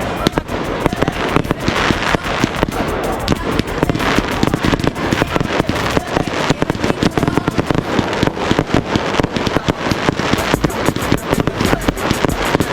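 Consumer fireworks finale: a dense, continuous barrage of rapid overlapping bangs and crackling reports, many a second.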